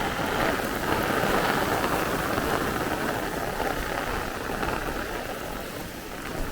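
Heavy thunderstorm rain pouring steadily in gusty wind, easing slightly near the end.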